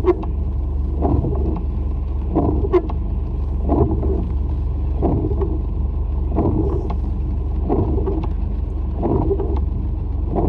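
Car windshield wipers sweeping over the glass at an even pace, one sweep about every 1.3 seconds, over the steady low road and engine noise heard from inside the moving car.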